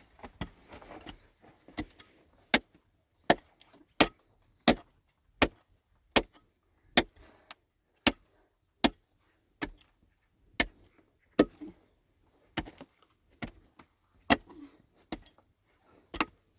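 A steady series of sharp knocks or taps, about one every three-quarters of a second.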